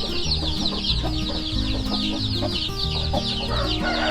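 A brood of four-day-old chicks peeping continuously, many short, high, falling chirps overlapping one another.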